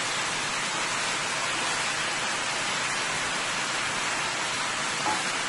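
Chicken, potatoes and long beans (bora) frying in a pot, giving a steady, even sizzle.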